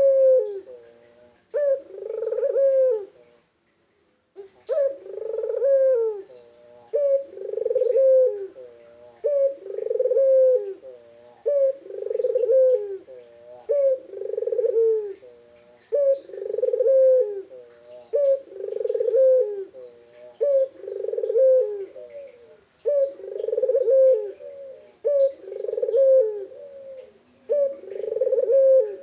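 Puter (Barbary dove) cooing over and over in low, rolling phrases, one about every two seconds. There is a short break about three seconds in.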